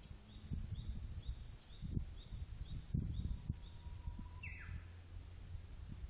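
Wild songbird calling: a run of short, high, falling notes repeated about twice a second, then a single louder downward call shortly before the end. A low rumble and a few clicks sit underneath.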